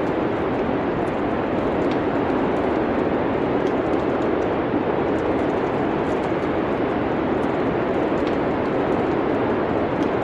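Wood fire crackling in a fireplace, with small sharp pops scattered over a steady low rushing noise.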